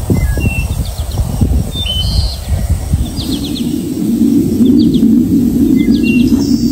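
Small songbirds chirping in short, quick trills, several times over, above a loud low rumbling noise that grows denser about three seconds in.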